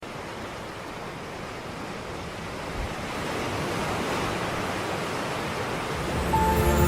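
Sea waves washing, a steady rushing noise that slowly swells. Music with sustained tones comes in near the end.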